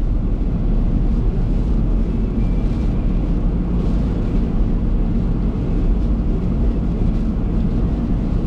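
Steady low rumble of a car on the move, road and engine noise picked up by a dashcam microphone inside the cabin.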